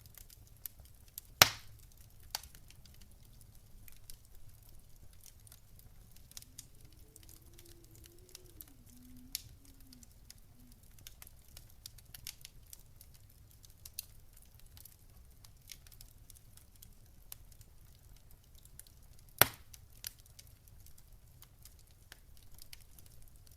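Wood fire crackling: scattered small snaps and ticks, with two sharp loud pops, one about a second and a half in and another near the end.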